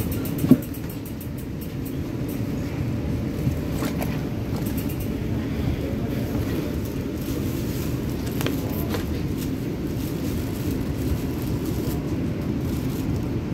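MTR K-Train electric multiple unit running between stations, heard from inside the car: a steady low rumble of wheels on track, with one sharp knock about half a second in and a few faint clicks later.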